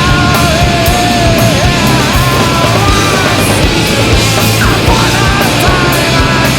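Loud hard rock music: driving drums with cymbal hits about twice a second under a wavering melodic line.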